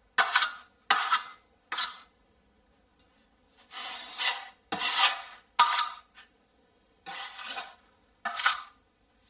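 Putty knife scraping GIB finish compound over a wall patch in about nine strokes, some short and quick, some drawn out for nearly a second, applying the second thin coat.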